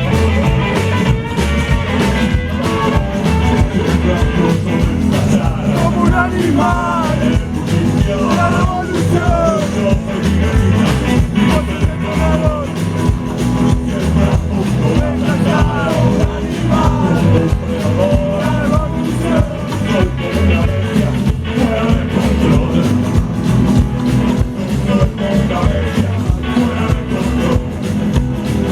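Loud rock music from a band playing the song, with a lead melody line bending up and down in pitch through the middle of the passage.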